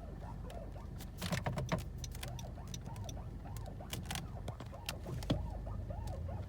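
A 2017 Honda Accord making a run of short, repeated squeaks, each rising and falling in pitch, over the car's low steady hum. Scattered clicks and a couple of louder knocks come through about a second in and again about five seconds in.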